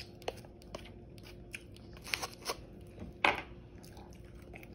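Chewing and crunching through crispy air-fried chicken wing skin close to the microphone: a string of irregular crunches and mouth clicks, the loudest crunch about three seconds in.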